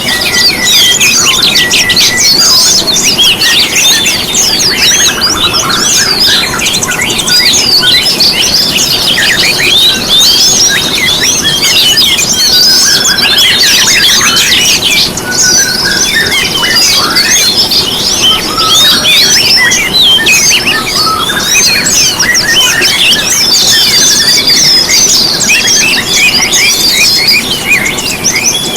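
A dense chorus of small songbirds, several singing at once in fast, high, overlapping twittering and chirping without a break. It is the kind of lure recording played to set caged songbirds singing.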